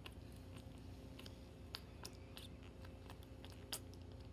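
A kitten eating, with faint scattered clicks of chewing. A couple of sharper clicks come near the middle and near the end.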